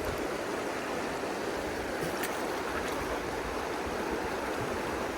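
Shallow river water running, a steady rush, with a couple of faint clicks about two and three seconds in.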